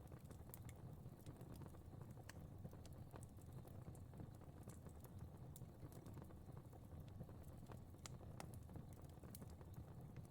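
Fire crackling faintly: irregular sharp pops and snaps over a low steady rumble.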